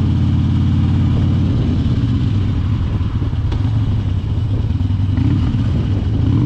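Harley-Davidson Dyna's air-cooled V-twin engine running while the motorcycle is ridden, with a steady low firing pulse.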